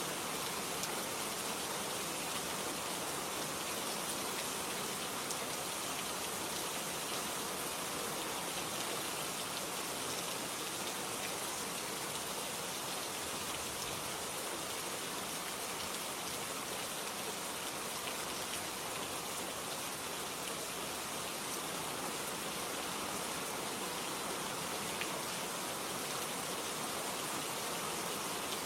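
Steady rain falling, an even hiss with fine pattering drops and no changes.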